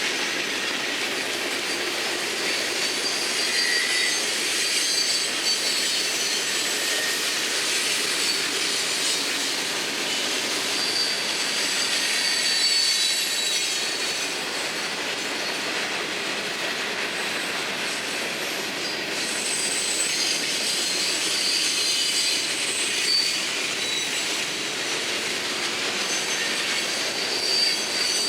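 Florida East Coast Railway freight cars rolling past in a steady rush of wheel-on-rail noise, with high-pitched wheel squeal that comes and goes.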